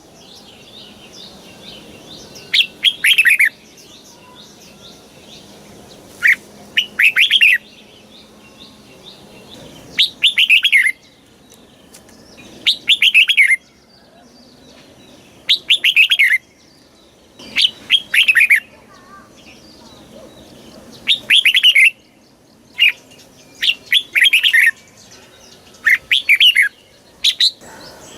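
Red-whiskered bulbul singing: short, bright, warbling phrases of quick falling notes, repeated every two to three seconds.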